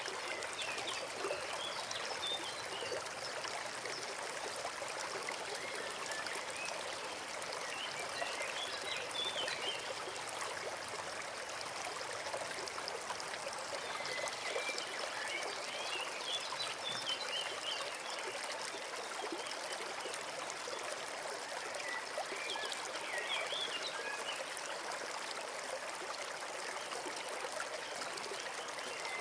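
Forest stream running steadily, a constant trickling rush of water. Short bursts of bird chirping come in over it every six or seven seconds.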